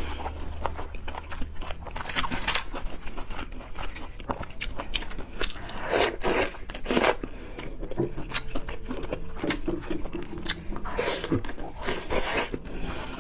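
Close-miked eating: chewing and crunching, with scattered clicks and scrapes as the food is handled. The louder crunching bursts come a few seconds apart.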